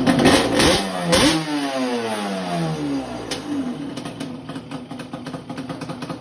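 1995 Yamaha Banshee's twin-cylinder two-stroke engine blipped up twice in quick succession, then its pitch falls away over about two and a half seconds before settling into a quieter steady running.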